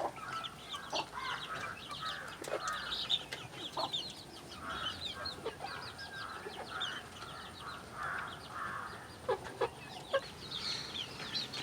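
Domestic chickens clucking on and off, with a steady scatter of short, high chirps.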